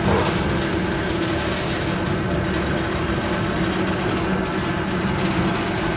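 Suburban electric train running, heard inside the carriage: a steady rumble of wheels on the track with a low, even motor hum.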